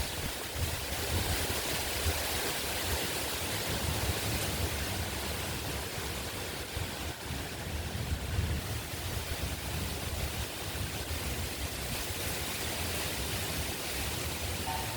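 Heavy wind blowing in a steady rush, with an uneven low rumble where it buffets the microphone.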